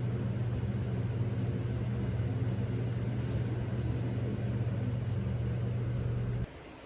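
A steady machine hum that stops abruptly near the end.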